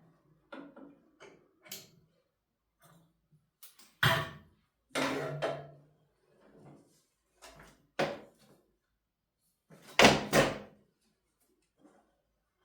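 A series of irregular knocks and clunks from things being handled and set down, with the loudest pair about four seconds in and about ten seconds in.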